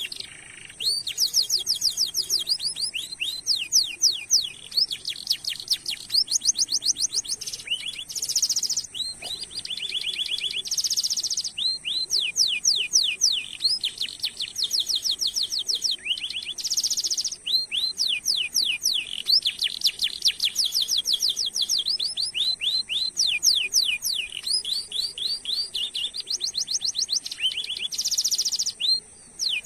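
Domestic canary singing a long, continuous song of rapid trills, each made of quickly repeated downward-sweeping high notes, broken every few seconds by short buzzy phrases.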